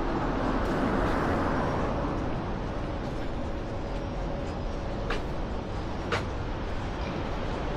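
City street traffic noise, with a vehicle passing in the first two seconds over a steady rumble, and two sharp clicks about five and six seconds in.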